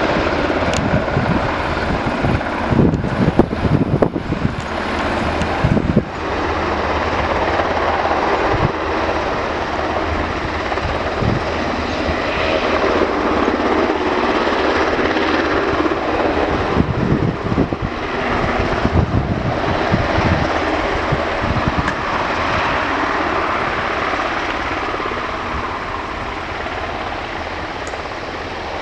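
UH-60 Black Hawk helicopter running, its rotors and twin turboshaft engines making a loud, steady rushing noise. Low thumps come and go, and the sound eases off slowly near the end.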